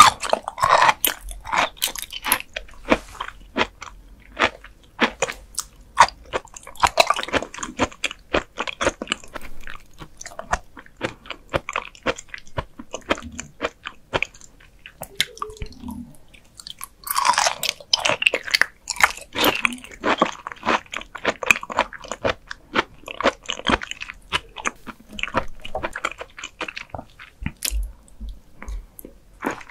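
Close-miked eating sounds of raw liver slices and chewy white strips being bitten and chewed: dense sharp mouth clicks that come in bursts, with short quieter pauses between mouthfuls.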